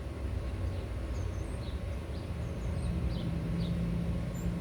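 Faint, short, high-pitched hummingbird chirps, several scattered through, over a steady low background hum.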